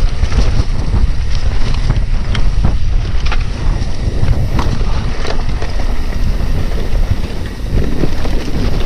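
Wind buffeting an action camera's microphone during a bike ride: a loud, steady low rumble, with scattered sharp clicks and knocks.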